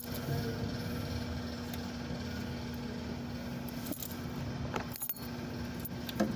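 Steady machine hum of a refrigerated truck's running machinery, with a few light metallic clicks and knocks about four, five and six seconds in.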